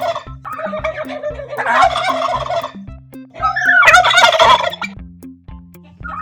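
Domestic poultry calling in two long, rapid, rattling bursts; the second, starting about three and a half seconds in, is the loudest, and the calls fade out near the end.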